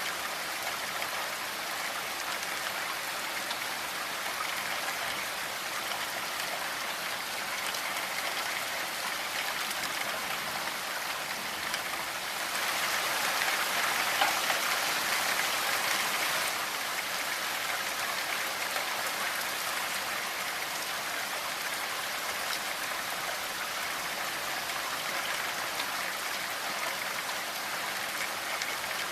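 Steady rainfall, an even hiss of drops, briefly heavier for a few seconds around the middle.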